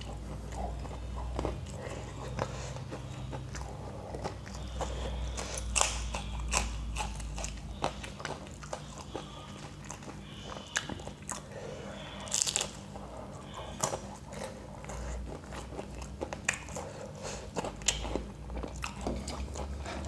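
Close-up chewing of fried samosa, with many sharp, crisp crunches of the fried pastry throughout.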